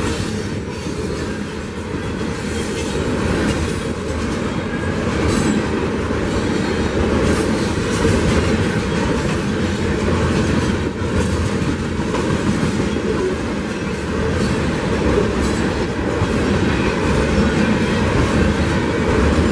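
Covered hopper cars of a freight train rolling past at trackside: a steady low rumble of steel wheels on the rails, with occasional clicks.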